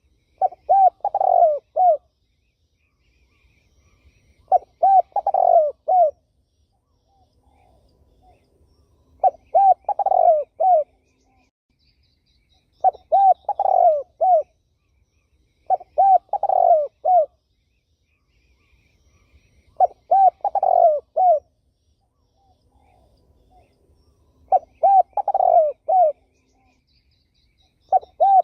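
A spotted dove cooing in repeated phrases, each a run of three to five low coos, coming about every three to four seconds. Faint chirps of other small birds sound between the phrases.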